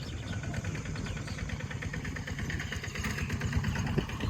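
A small engine running steadily at idle, a low, even rumble with a fast regular pulse.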